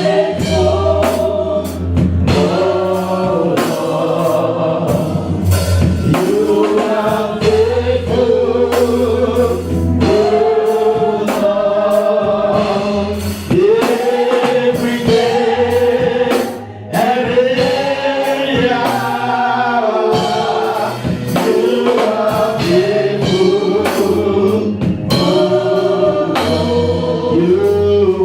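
Gospel worship song: voices singing together over a band with bass and drums.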